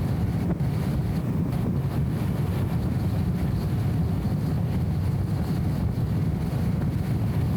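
Steady low drone of a BMW E34 M5 Touring's straight-six engine and road noise while cruising, dull and muffled by a camera's anti-wind audio filter.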